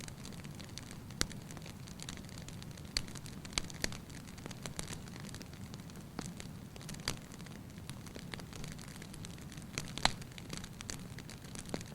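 Wood fire burning in a fireplace: a steady low hiss with irregular sharp crackles and pops, the loudest pop about ten seconds in.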